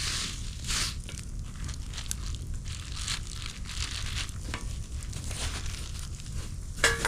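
Packaging crinkling and rustling as it is handled, in a series of swishes. Near the end come a few sharp metal clinks that ring briefly.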